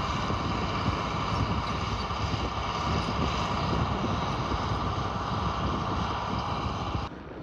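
John Deere 4955 tractor's six-cylinder diesel engine running steadily, with a steady whine over the engine noise; the sound cuts off abruptly near the end.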